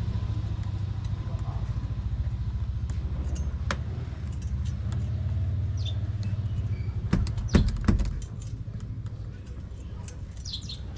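A vehicle engine running with a steady low rumble that dies away about eight seconds in. Just before it fades there are a few sharp metallic clicks and thumps.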